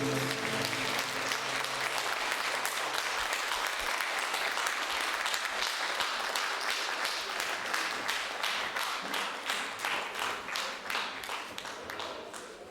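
Audience applauding as the last note of a song dies away; the applause thins to scattered separate claps and fades out near the end.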